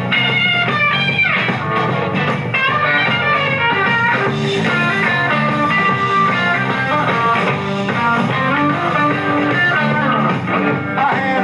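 Live blues-rock band playing an instrumental break, with an electric guitar lead bending notes over bass guitar and drums.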